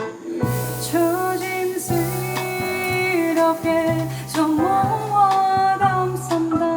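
Live jazz band playing: a female voice holds long, gliding notes over piano, upright double bass and drums.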